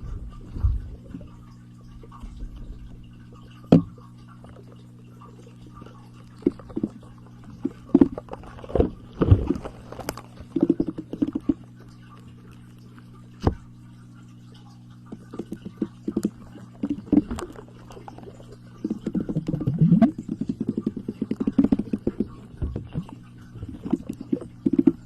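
Close-miked ASMR trigger sounds: scattered sharp taps and clicks, turning into denser runs of quick crackly scratching in the last few seconds, over a faint steady electrical hum.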